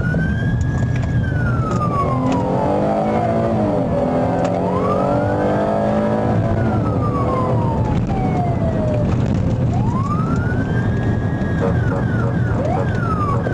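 Police car siren wailing in slow rising-and-falling sweeps, about three cycles, over the low rumble of the pursuing car's engine and road noise. The sweeps quicken near the end.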